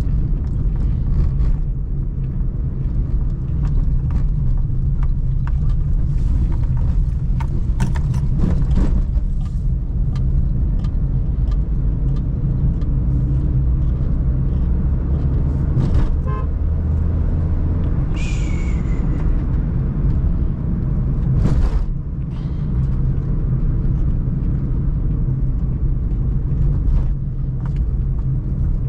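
Suzuki Celerio driving in city traffic: a steady low engine and road rumble, with scattered light knocks and a brief high squeal that falls in pitch about eighteen seconds in.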